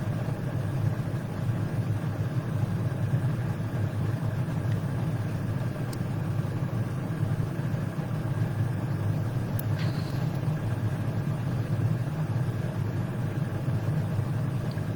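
Steady low mechanical hum that does not change, with a couple of faint ticks.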